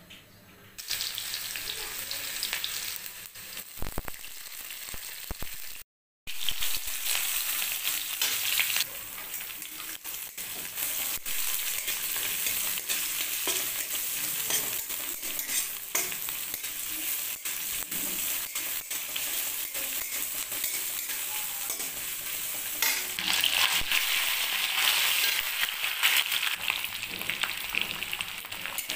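Onions and green chillies sizzling in hot oil in a metal wok, stirred with a metal spatula that clicks and scrapes against the pan. The sound cuts out briefly about six seconds in, and the sizzle is louder a little before the end.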